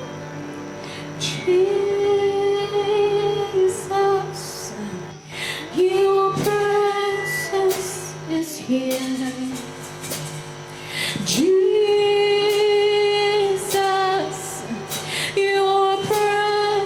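A woman singing slow, long-held notes with some vibrato, in phrases that swell and fall, over steady sustained instrumental backing in a worship song.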